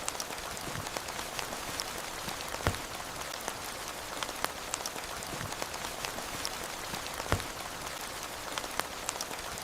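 Steady rain falling, a soft even hiss with many individual drops ticking close by. A couple of heavier drips stand out, about a quarter of the way in and again past the middle.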